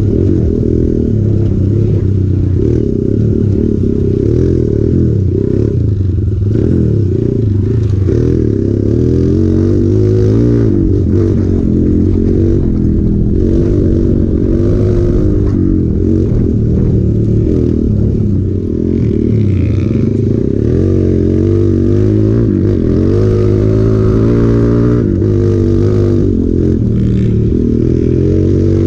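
Hero Impulse motorcycle's single-cylinder engine running under load off-road. Its note rises and falls over and over as the throttle is opened and closed, with occasional clattering knocks.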